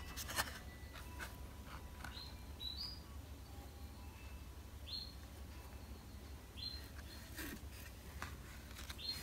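A small bird chirps a handful of short, high notes that rise in pitch, spaced a second or two apart. Faint clicks and rubs of stiff oracle cards being handled sound under them.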